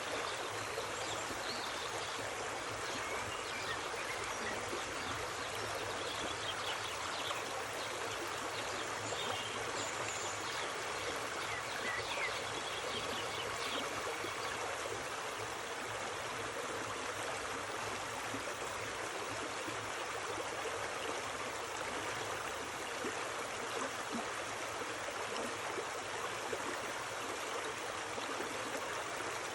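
Mountain stream flowing steadily, an even rushing and babbling of water, with a few faint high chirps in the first half.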